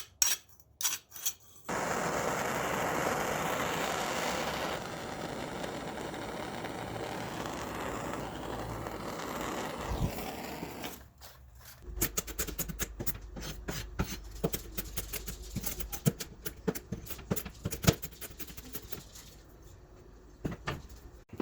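Cleanup of a hardened 5160 leaf-spring steel blade: a few quick file strokes, then about nine seconds of steady power sanding or buffing noise on the steel, then from about twelve seconds in a long run of quick scrapes and clicks over a low hum.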